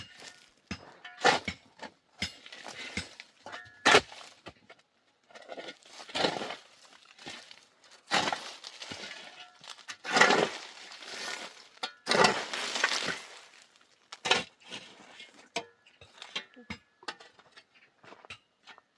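Irregular sharp clinks and knocks of hard objects striking one another, broken by several longer scraping or rushing sounds of about a second each.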